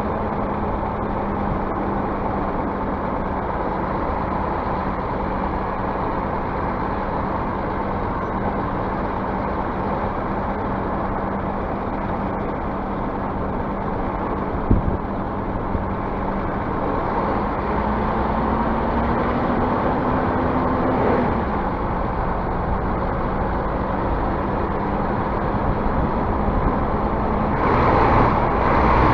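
Scania bus diesel engine running under way, its note climbing slowly and then dropping back abruptly about two-thirds of the way in. A single knock comes about halfway, and a short rush of noise near the end.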